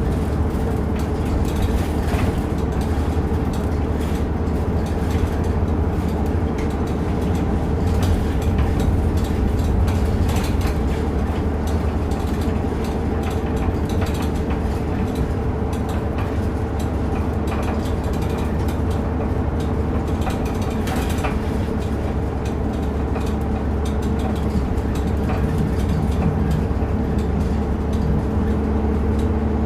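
Inside a route bus under way: a steady low engine drone and road noise with a constant hum, over which the cabin's fittings keep up an irregular clicking rattle.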